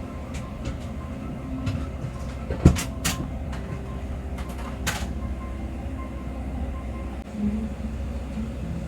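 Steady low rumble of a Boeing 777-300 airliner cabin, with a scattering of short clicks and knocks over the first five seconds. The loudest is a thump about two and a half seconds in.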